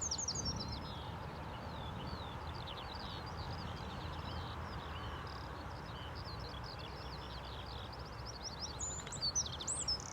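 Songbirds singing in quick, twittering chirps, busiest at the start and again near the end, over a low steady rumble.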